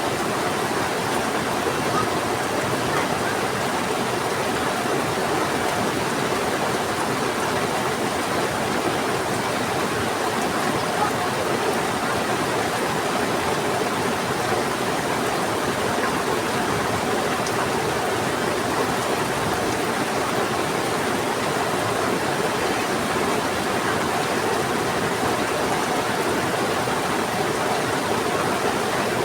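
Rain falling together with a fast-flowing river rushing steadily, as one even wash of water noise.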